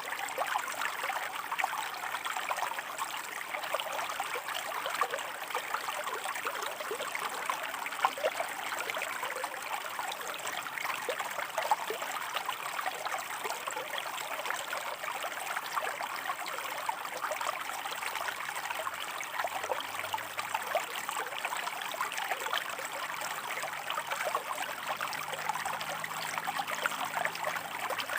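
River water running over rocks: a steady babble with many small splashes and trickles.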